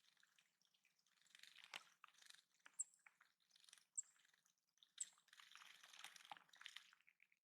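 Faint splashing of a small bird bathing in a shallow stream-fed bird pond, in several short bouts, with three brief high-pitched notes about a second apart.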